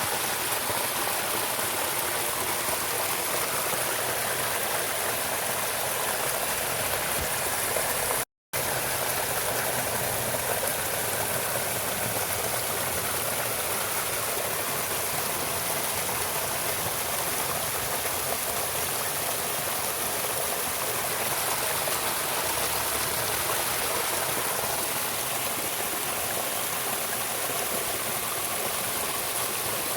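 Steady rushing of a flowing stream, even and unbroken, except for a fraction-of-a-second gap in the audio about eight seconds in.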